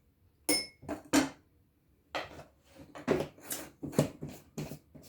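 Metal utensil clinking and scraping against a dish while serving out peanut butter: one ringing clink about half a second in, then a run of quick scrapes and knocks.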